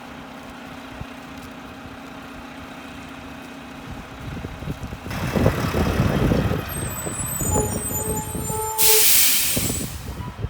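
Mack LR garbage truck's diesel engine idling with a steady hum, then running louder and rumbling from about five seconds in. Just before the end comes a sharp hiss of air brakes lasting about a second.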